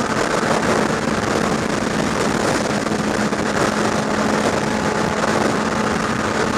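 Motorcycle riding at a steady highway speed: heavy wind rush over the microphone with the engine running at an even pitch underneath.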